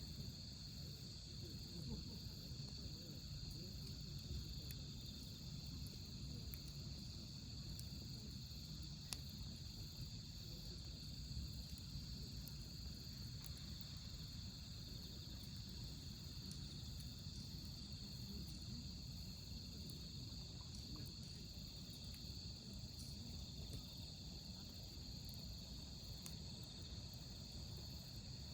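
A steady chorus of autumn crickets chirping, with the low rustle of a wood campfire burning and occasional small crackles from the fire.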